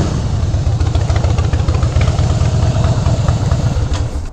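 Motorcycle engine idling with a steady low pulsing beat, switched off near the end.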